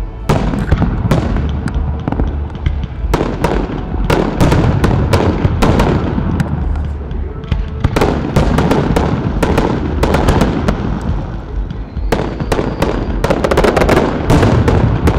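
Aerial firework shells launching and bursting in rapid succession, a dense string of loud bangs and crackles over a low rumble.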